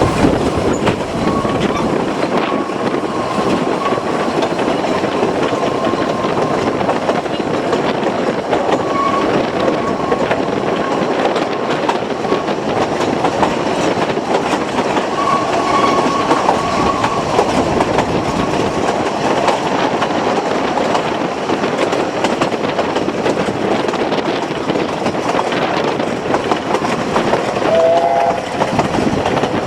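Narrow-gauge railway train running along the track: a steady rumble and rattle of the carriages over the rails, with thin squeals coming and going now and then and a short higher tone near the end.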